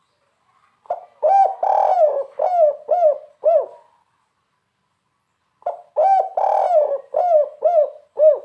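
Spotted dove (tekukur) singing its 'kuk 3' song twice: each phrase opens with short notes, swells into a longer coo and ends with three short, evenly spaced 'kuk' coos.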